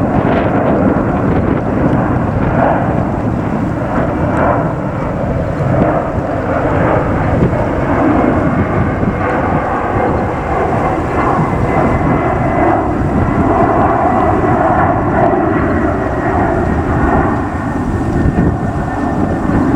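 Jet airliner's engines running loud and steady, a rushing roar with a faint whine that slowly falls in pitch.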